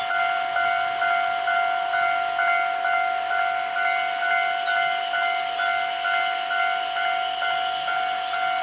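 Railway level-crossing warning bell ringing: a steady ringing tone with an even beat of strikes, about three a second.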